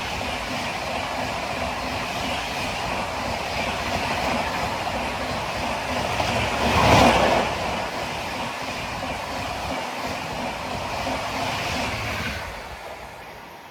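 Express passenger train passing at high speed, its coaches rushing by with wheel clatter. A brief louder surge comes about seven seconds in, and the sound falls away near the end.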